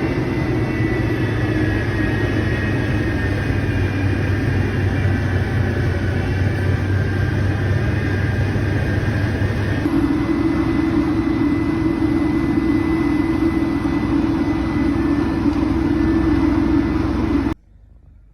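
A steady engine-like rumble with a few steady tones through it. It changes character about ten seconds in and cuts off abruptly near the end.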